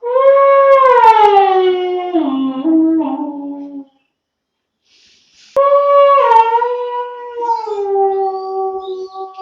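Two-month-old German Shepherd puppy howling: two long howls, each starting high and sliding down in pitch, with a short silent gap between them.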